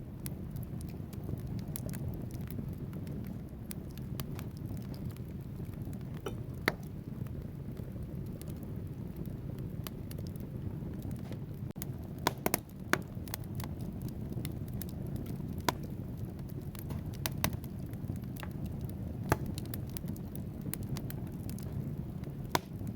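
Wood fire burning in a fireplace: a steady low rumble of the flames with logs crackling and popping at irregular moments, a quick cluster of louder pops about halfway through.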